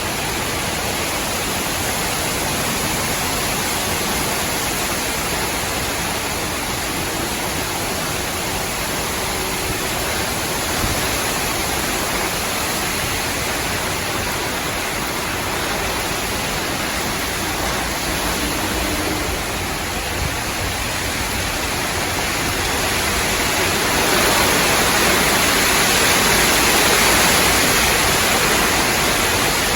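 Strong, gusty wind rushing through tree branches and leaves in a steady roar of noise, with a gust swelling louder about four-fifths of the way through.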